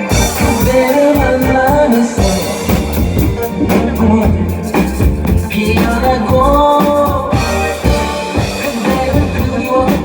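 Band music playing a song's introduction, with a drum kit keeping a steady beat under a gliding melody line.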